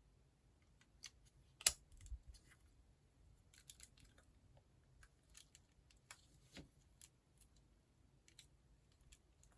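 Faint scattered clicks and taps of small plastic building-block pieces being handled and pressed together, with one sharper click about a second and a half in.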